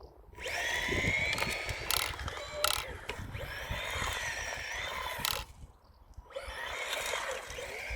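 Battery-powered RC drift car's electric motor and gears whining with a ratcheting, gear-like chatter as it accelerates and slides, with a few sharp clicks. The sound drops away briefly about five and a half seconds in and picks up again about a second later.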